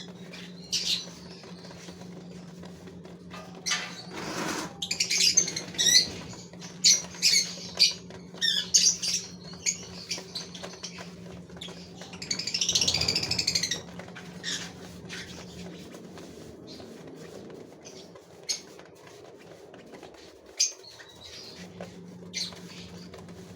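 Gouldian finches calling in short high chirps and squawks, with wing flutters and scattered clicks, busiest about twelve to fourteen seconds in. A steady low hum runs underneath, cutting out around eighteen seconds in and returning a few seconds later.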